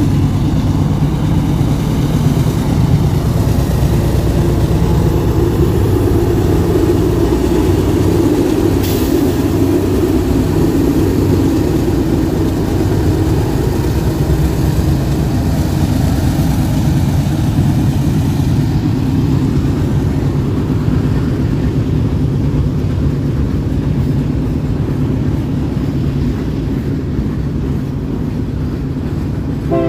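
A train passing close by: a steady heavy rumble with a diesel locomotive's low engine drone, easing slightly near the end.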